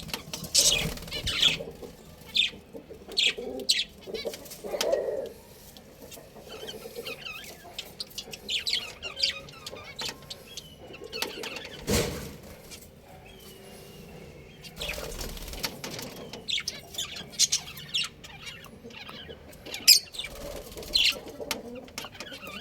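Cage birds chirping with short, scattered high calls, with some wing flapping and low cooing sounds, and one sharp knock about halfway through.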